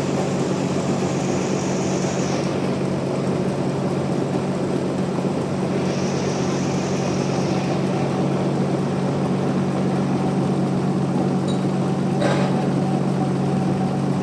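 Band sawmill's engine running with a steady low drone. Two spells of high hiss and one sharp knock about twelve seconds in.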